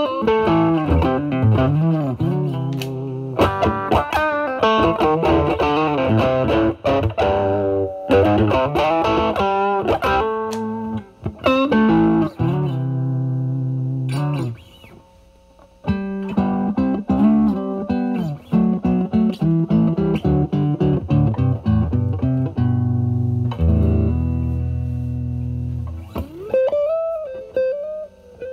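Fender Stratocaster electric guitar through a Vertex Steel String Clean Drive pedal at full gain into a Marshall Valvestate amp's drive channel, playing overdriven lead phrases with string bends. It stops briefly about halfway, then goes on with held chords and bent notes.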